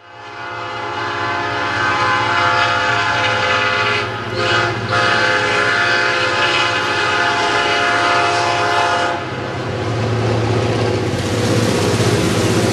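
EMD GP38 diesel locomotive's horn sounding for a grade crossing in long blasts, broken briefly about four seconds in and cutting off about nine seconds in. The locomotive's engine and the passing train keep running after the horn stops.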